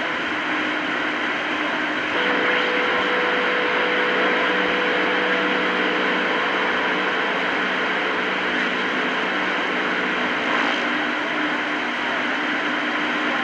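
CB radio receiver hiss and band static between transmissions, with faint steady whistle tones that come in about two seconds in and drop out again near the end.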